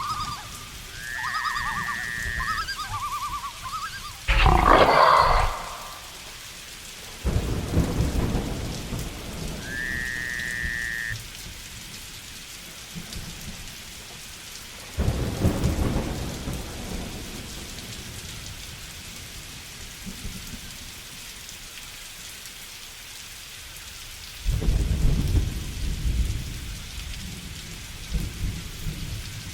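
Steady heavy rain with rolling thunder: low rumbles come in about seven, fifteen and twenty-four seconds in, and a loud sudden crash hits about four seconds in. Short pitched animal calls sound in the first few seconds and once more around ten seconds in.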